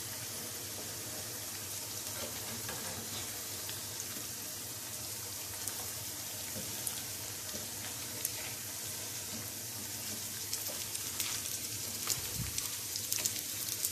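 Vermicelli-coated semolina patties shallow-frying in hot oil in a pan: a steady sizzle with fine crackles. Spatulas tap and scrape on the pan as the patties are turned, the taps coming more often near the end.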